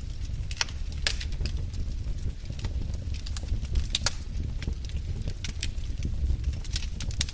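Wood fire burning in a fireplace: sharp, irregular crackles and pops from the logs over a steady low rumble of the flames.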